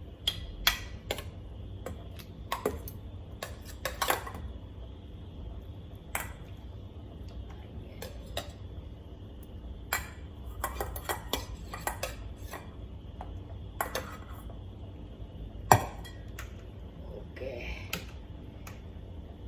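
Kitchen clatter of utensils clinking and knocking against pots and pans, irregular and scattered, with one sharper knock about three-quarters of the way through, over a steady low hum.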